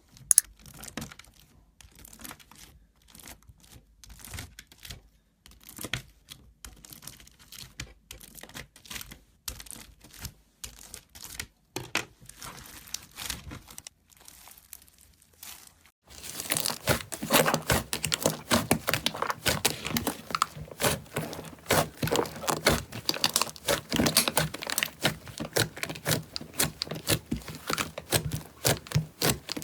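Slime being squeezed and pressed by hand, with scattered sticky clicks and pops at first, then about halfway through a change to loud, dense crackling.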